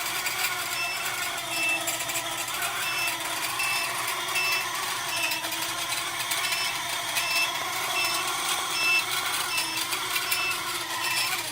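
Quadcopter brushless motor running steadily with a rough, wavering whir from its worn-out bearings. A short high beep repeats a little more than once a second.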